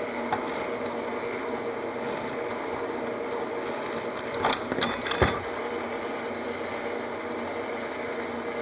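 Knifemaking belt grinder running with steel held against the abrasive belt, a steady rasping grind with a faint motor hum, and a short run of sharper scrapes about halfway through.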